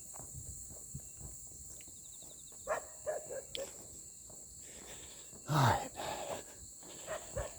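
Footsteps of someone walking on a country road, with a steady high chirring of insects behind them.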